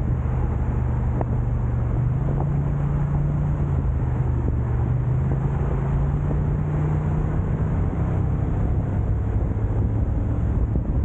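A car driving: steady low road and engine drone with some wind rumble, the engine hum stepping up slightly in pitch about two seconds in and easing back down near the end.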